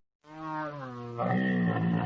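An animal's call: one long pitched cry that slides down in pitch at first, then jumps higher and wavers.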